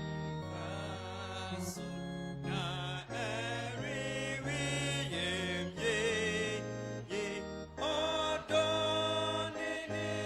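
Church music: a sung melody with vibrato over keyboard backing, with a bass line that steps to a new note about every second.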